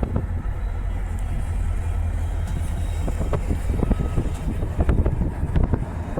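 Freight train cars rolling past: a steady low rumble with irregular clanks and knocks from wheels and couplers.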